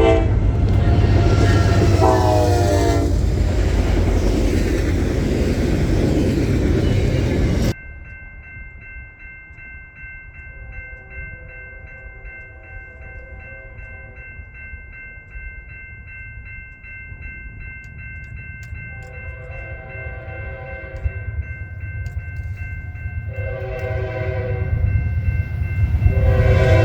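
A train passing close, its rumble loud, with two horn blasts near the start. After an abrupt cut, a rapid steady ringing goes on while an approaching locomotive sounds its horn in several blasts that grow louder toward the end.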